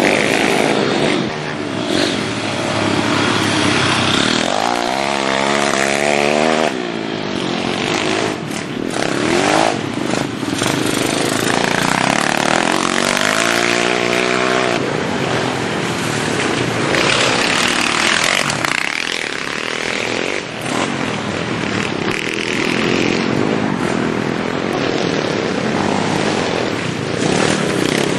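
Minibike engines running hard, their pitch rising and falling as they rev up and back off.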